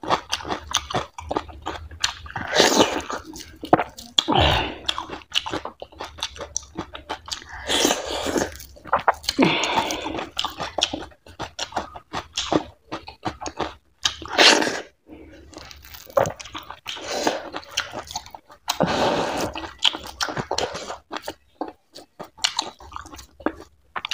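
Close-miked wet chewing and lip-smacking of a person eating fatty goat-meat curry and millet dhido. It comes as an irregular run of sharp smacks and clicks with louder squelchy mouthfuls every few seconds.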